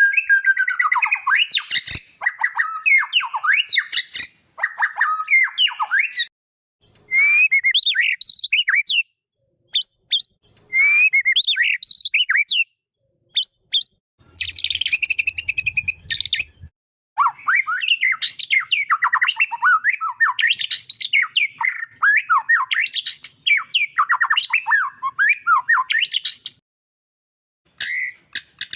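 Murai batu (white-rumped shama) singing in quick, varied whistled phrases with gliding notes and short pauses between them, with a harsh rasping burst near the middle.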